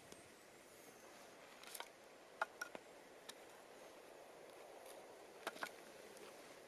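Wood fire crackling quietly: a handful of sharp pops and snaps, clustered around two to three seconds in and again a pair near the end, over a faint steady hiss.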